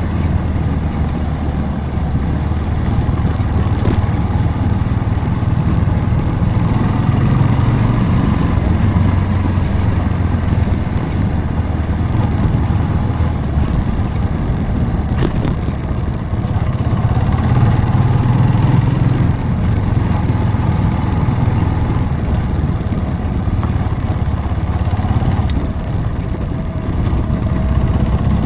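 Motorcycle engine running at low road speed, its pitch rising and falling with the throttle, over steady wind and road noise. A few short clicks are heard along the way.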